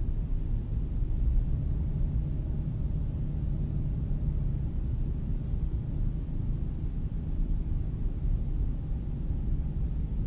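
Steady low rumble of a Jeep driving, engine and road noise heard from inside the cabin.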